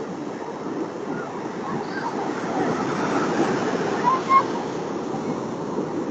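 Ocean surf washing onto a beach, swelling louder through the middle, with faint distant voices.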